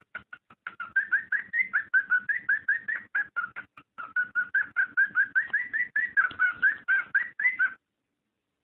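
Cockatiel mating call: a fast, even run of short chirping notes, about five a second, each bending up and down around one pitch. It stops abruptly near the end.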